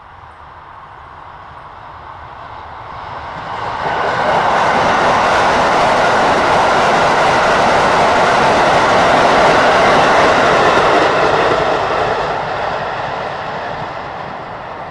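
Keisei electric train approaching and passing close by, its wheels clattering over the rail joints. The sound grows, turns suddenly loud about four seconds in, stays loud for about seven seconds, then fades as the train moves away.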